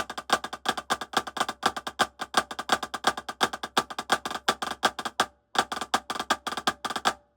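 Drumsticks playing a fast, even run of strokes on a tightly tuned drum, a rudiment exercise of inverted flam taps. The playing pauses briefly a little past halfway, then stops near the end with a single last stroke.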